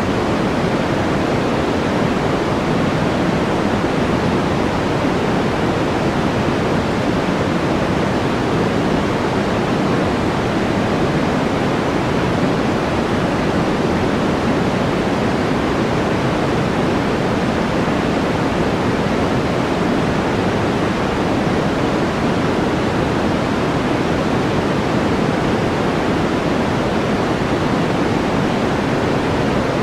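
Steady white-noise track: an even, unbroken rush with no separate events, weighted toward the low end so it sounds deeper than a bright hiss.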